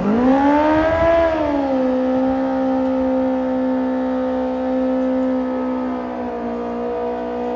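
Sport bike engine revving up and back down about a second in, then running at a steady high pitch.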